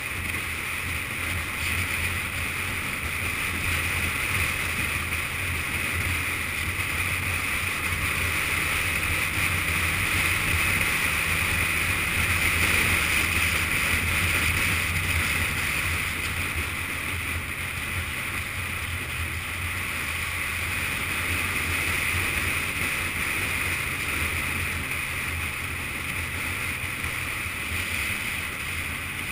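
Yamaha FZS600 Fazer's inline-four engine running at a steady cruise, with wind rushing over the microphone. The sound swells slightly midway and eases off near the end.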